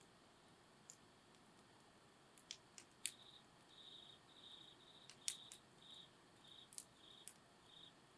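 Campfire wood crackling faintly, with a handful of sharp pops, the loudest about three and five seconds in. A cricket chirps in short high trills about twice a second from about three seconds in.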